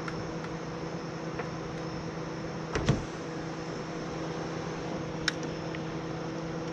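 Power window motor and new regulator in a 2002 Honda Civic door running the glass, a steady hum with no hesitation. It is broken by one knock a little under three seconds in and a short click about five seconds in.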